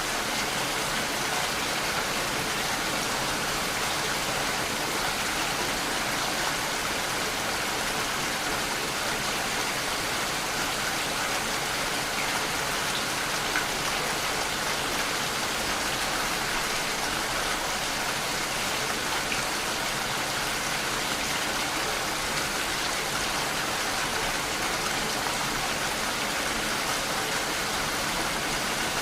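Steady rain falling, an even hiss of many drops with a few faint separate drop ticks.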